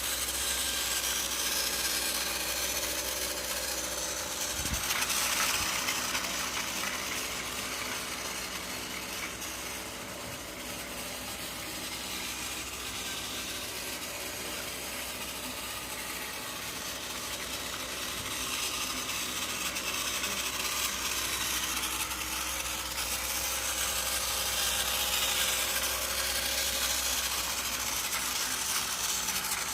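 Battery-powered TrackMaster toy train engine running on plastic track, its small geared motor giving a steady whirring, ratcheting drone. It grows louder and fainter by turns as it moves along the track.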